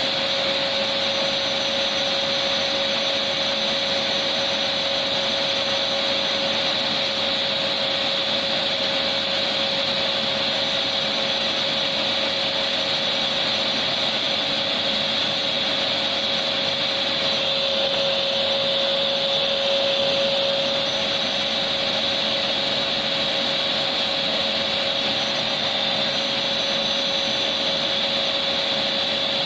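Electric vacuum cleaner running steadily: an even motor whine with a hiss of rushing air and no change in speed.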